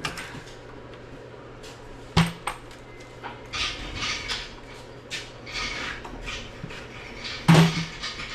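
Metal clanks and rattles of hand tools and engine parts as the intake manifold is taken off an LS V8 block, with a sharp knock about two seconds in and the loudest clank near the end.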